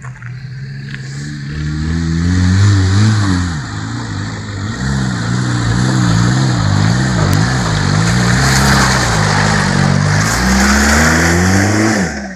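Off-road 4x4's engine revving hard under load, its pitch climbing, dipping and wavering again and again with the throttle, then dropping away sharply near the end.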